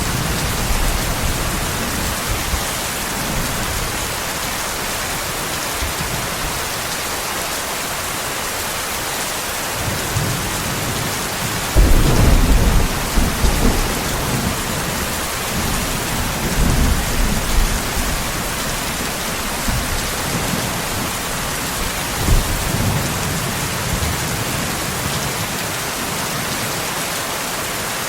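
Steady rain falling in an even hiss, with rumbles of thunder. The loudest rumble comes a little before the middle and lasts about two seconds, and weaker rumbles follow later.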